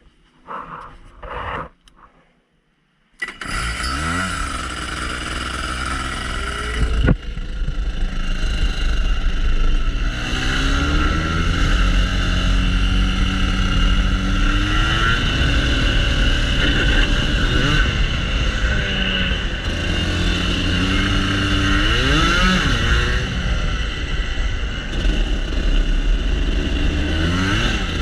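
Rotax Max Senior 125 cc two-stroke kart engine coming in suddenly about three seconds in, then revving up and down again and again as the kart accelerates and slows through the corners. A single sharp click sounds at about seven seconds.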